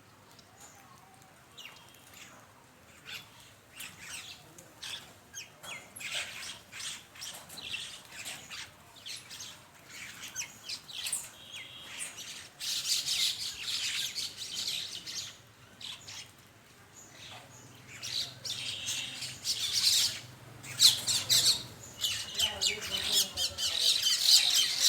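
A flock of mynas squawking and chirping, harsh short calls that grow busier and louder toward the end.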